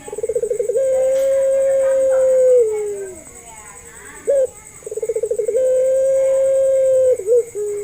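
Puter pelung dove cooing twice: each call opens with a quick stuttering roll, then runs into a long, steady, drawn-out note that slides down in pitch at its end. A short single coo falls between the two calls, and another comes near the end.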